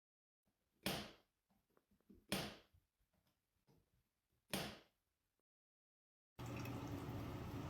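Three sharp knocks, about a second and a half to two seconds apart, each briefly ringing out, with faint small clicks between them. A steady noisy background starts abruptly near the end.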